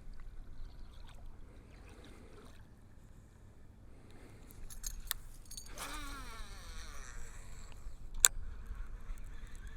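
Baitcasting reel spool whirring with a falling pitch as a blade lure is cast, with light clicks before it and one sharp click near the end, over a faint low hum.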